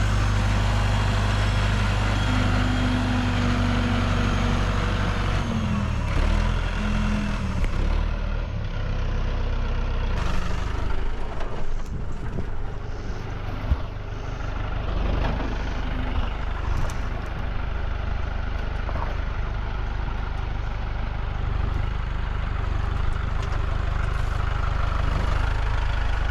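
Tractor engine running steadily. Its note shifts about six to eight seconds in, and there is a single sharp knock about fourteen seconds in.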